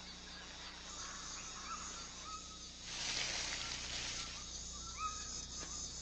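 Tropical rainforest ambience: a steady high insect hiss with short whistled bird calls repeated several times. A louder rush of noise lasts about a second and a half in the middle.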